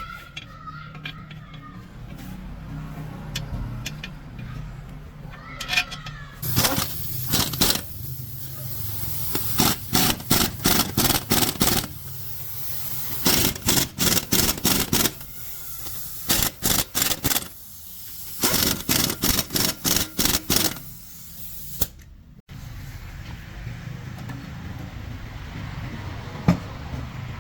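Sharp knocks in fast runs of several a second, coming in bursts of one to two seconds, over a low steady hum: work on a truck gearbox.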